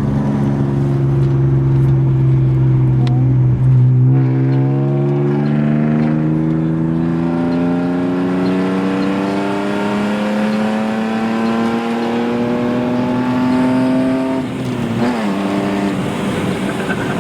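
Car engine pulling through the gears: a steady drone, a drop in pitch about four seconds in as it shifts up, a long smooth rise as the car accelerates, then another drop from a second upshift near the end.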